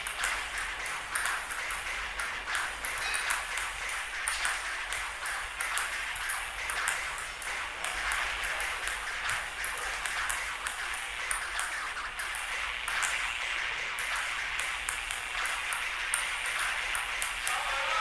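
Table-tennis balls clicking off paddles and the table in a fast rally, several sharp hits a second over a steady hiss.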